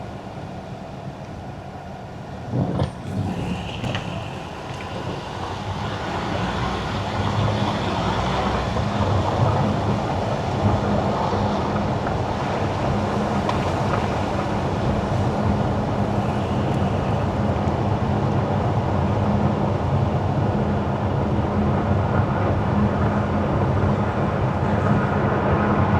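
A car driving on wet winter asphalt: steady tyre hiss and a low engine hum, growing louder over a few seconds as it speeds up, with a few short knocks a few seconds in.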